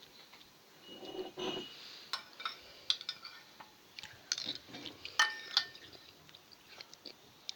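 A scattered series of light clicks, knocks and clinks from small hard objects being handled, some ringing briefly.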